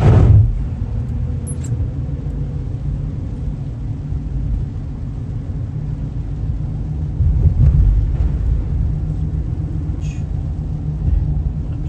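Car interior road noise while driving on wet pavement: a steady low rumble of engine and tyres, with a short louder whoosh right at the start and another louder surge about eight seconds in.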